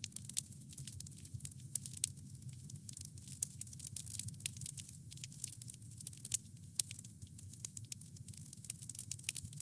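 Wood campfire crackling, with frequent sharp pops and snaps over a low steady rumble of burning.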